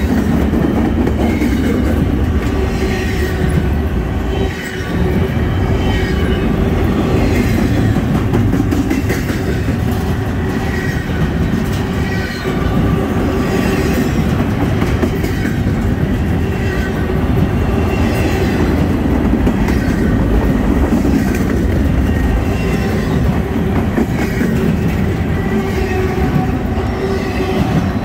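Intermodal freight train's well cars rolling past close by: a steady, loud rumble of steel wheels on the rails with the clickety-clack of the wheels over the rail joints.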